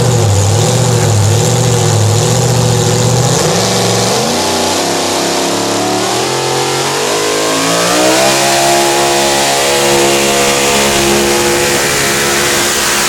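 A modified pulling truck's engine running loud. Its pitch holds steady for a few seconds, climbs smoothly over about four seconds as the engine revs up, then holds at the higher speed.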